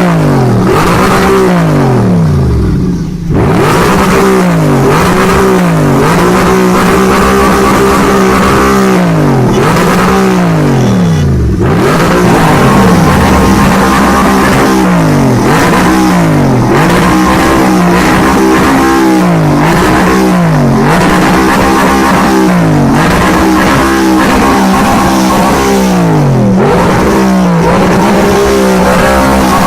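Audi R8 engine and exhaust revving over and over: the engine speed holds high, drops away sharply and climbs back about every two seconds.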